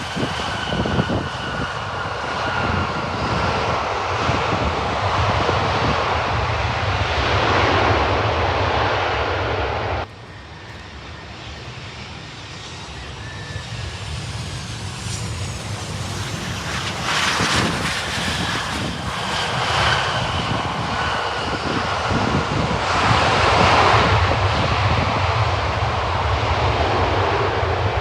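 Boeing 727-225F's Pratt & Whitney JT8D jet engines running loud, a deep roar with a thin whine over it. About ten seconds in the sound drops abruptly, then builds back up to full loudness.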